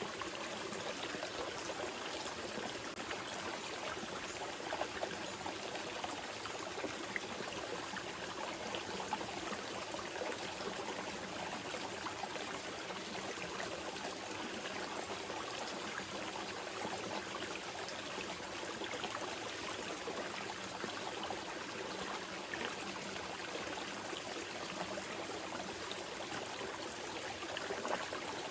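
Small river flowing steadily over stones, a continuous rushing and trickling with small splashes.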